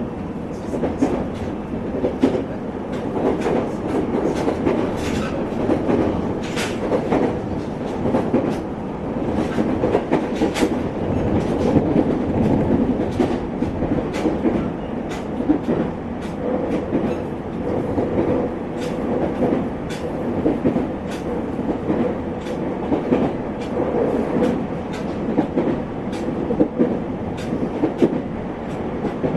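JR East 701 series electric train running, heard from inside a motor car: a steady rumble of the running gear with frequent sharp clicks from the wheels on the track.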